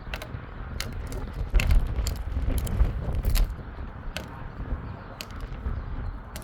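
Strong wind buffeting a phone's microphone: an uneven low rumble that swells in gusts, loudest from about one and a half to three and a half seconds in, with scattered sharp clicks and crackles.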